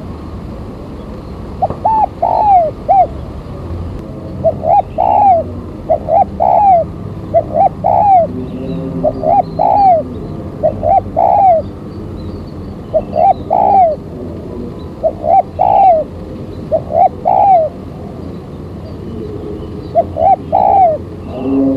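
Spotted dove (tekukur) cooing, used as a lure call for trapping wild doves: repeated phrases of two or three arching coos, a new phrase about every one and a half to two seconds, over a steady low background hum.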